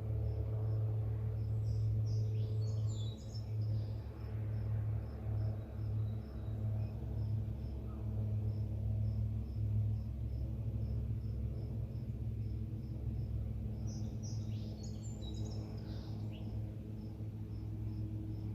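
Evening outdoor ambience: a cricket chirping in a steady string of high pulses, a few a second, and a bird singing short bursts of song twice, near the start and again about three-quarters of the way through, over a steady low rumble.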